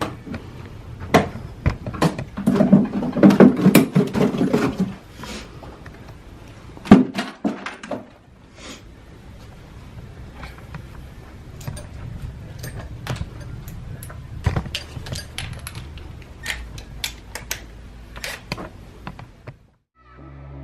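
Hard saddlebags being unpinned and pulled off a Harley touring bike: scattered clicks, knocks and clunks of plastic and metal parts, the loudest knock about seven seconds in.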